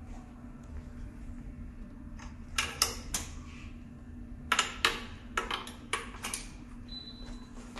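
Several sharp clicks and clacks, like hard parts or tools being handled, in two short clusters about two and a half and four and a half seconds in, over a steady low hum.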